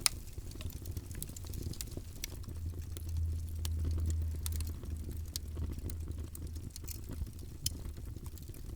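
Wood fire in a fireplace crackling: scattered sharp pops over a steady low rumble, with a loud pop right at the start and the rumble swelling for a couple of seconds in the middle.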